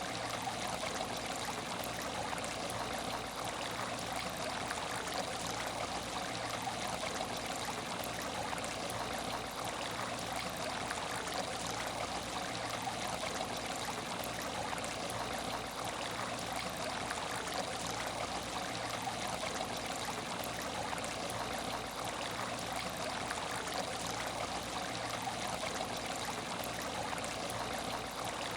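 Water in an empty aquarium tank trickling steadily, a constant even flow.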